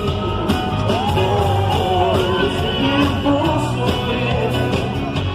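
Live pop-rock band music playing at a concert, with a singing voice and some shouting from the crowd.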